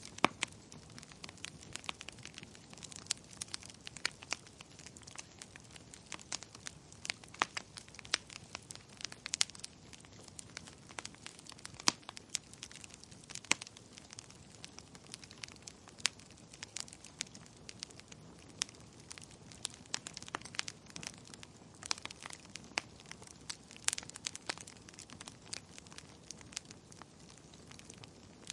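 Wood fire crackling: burning logs giving off irregular sharp pops and snaps, several a second, over a faint low hiss.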